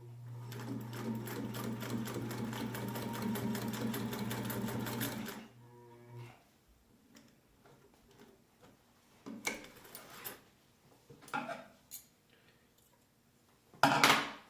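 Singer 99K sewing machine running on its electric motor, stitching through about eight layers of denim with a fast, even needle rhythm for about five seconds, then the motor winds down and stops. A few brief handling noises follow, and a sharp loud knock near the end.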